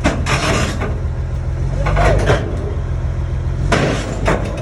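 Heavy diesel engine running steadily with a deep drone, broken three times by short bursts of hissing.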